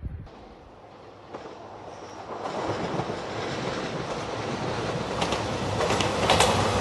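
A JR Shikoku 2700 series diesel limited-express train running past, its noise growing louder, with wheels clicking over the rail joints from about five seconds in.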